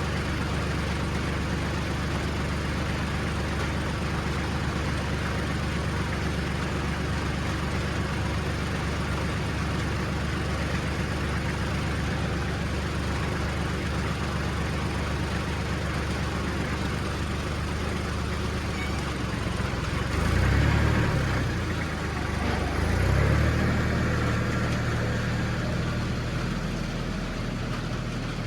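Vehicle engine running steadily, revving up briefly about twenty seconds in and again a few seconds later before settling back.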